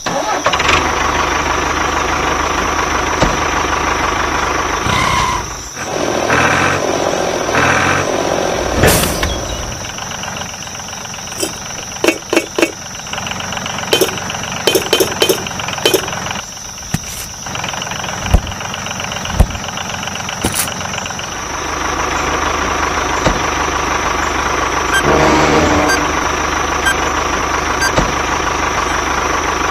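A motor running steadily, broken by a series of sharp clicks and knocks in the middle.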